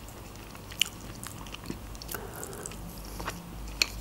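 Close-up chewing and mouth sounds of a person eating, with a few sharp clicks, the loudest about a second in and near the end.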